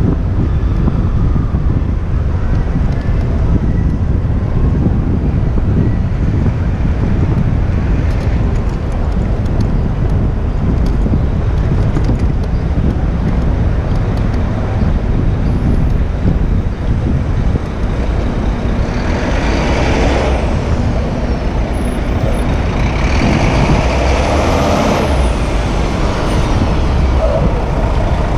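Busy city street traffic with a steady low rumble, heard from a moving bicycle. About twenty seconds in, and again a few seconds later, louder hissing swells as heavy vehicles such as trucks or buses pass close by.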